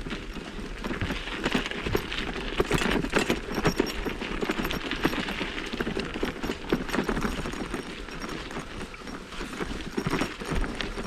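Mountain bike clattering over a rough dirt trail: a dense, irregular run of knocks and rattles.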